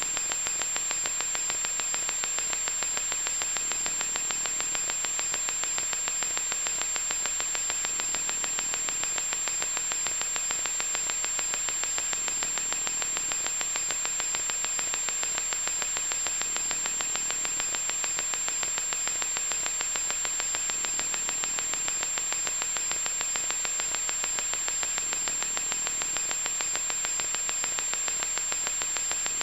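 Loud electronic static: an even, unchanging hiss with a thin, high-pitched whine held steadily inside it.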